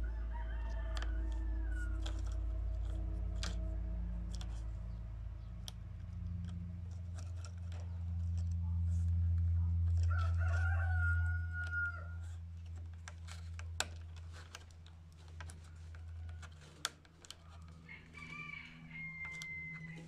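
Bird calls: three long, held calls with a slight fall at the end, near the start, about ten seconds in and near the end, over a steady low rumble and a few sharp clicks.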